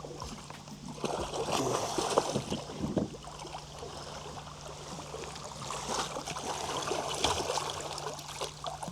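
Water splashing and sloshing beside a kayak as a hooked catfish is pulled up close and fought at the surface, with scattered knocks and crackles, in two busy spells about a second in and again after about six seconds. A faint steady low hum runs underneath.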